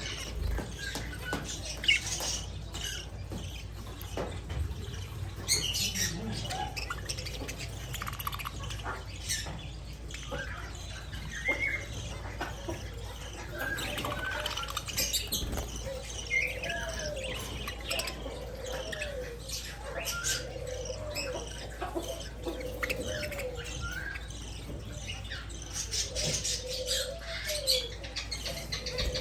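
Pet budgerigars chirping and chattering in short warbling notes, with scattered sharp clicks of beaks pecking at egg food.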